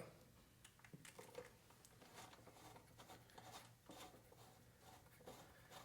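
Faint, scattered clicks and creaks of a hand-operated rivet nut gun being squeezed to set a threaded insert in a stripped screw hole.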